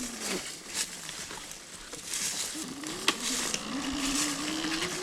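Electric enduro motorcycle's motor whining as it is ridden off-road. The whine falls and fades just after the start, then comes back about two and a half seconds in and rises in pitch as the bike speeds up, with a few sharp knocks from the rough ground.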